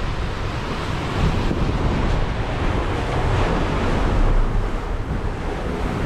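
Steady rush of wind and a confused sea around a sailing yacht under way, with wind buffeting the microphone.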